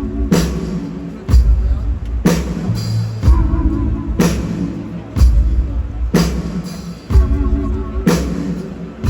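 Live rock band playing from the audience's point of view, a song's intro without vocals: a heavy drum-and-bass hit lands about once a second under sustained guitar and keyboard chords.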